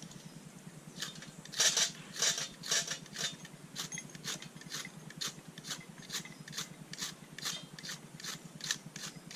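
Fire-starter rod being scraped hard and fast with a striker, again and again, about two to three strokes a second, to throw sparks onto tinder and relight a campfire that has just gone out.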